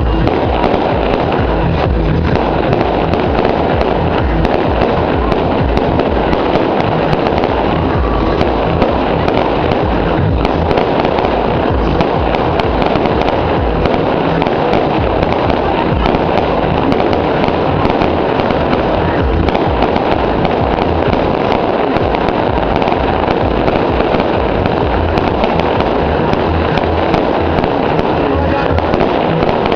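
Fireworks and firecrackers crackling and popping without a break, mixed with music and voices.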